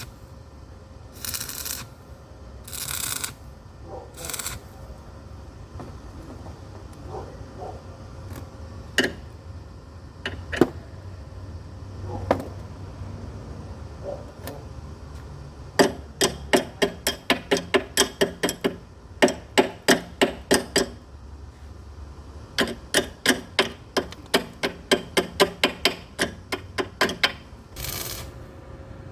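Metal being struck with a hammer in two quick runs of steady blows, about three or four a second, each run lasting some five seconds in the second half. A few short scraping hisses come earlier and near the end.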